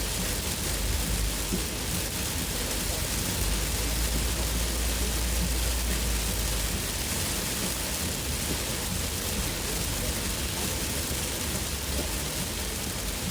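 Heavy monsoon rain pelting a moving car in a steady dense hiss, over the low rumble of the car on a wet road. The low rumble swells for a few seconds midway.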